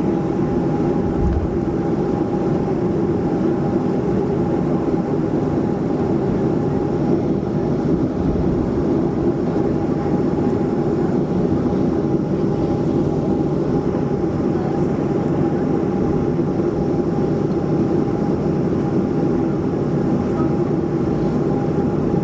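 Boeing 737-400 cabin noise: a steady, even rush of engine and airflow with a constant whine running through it.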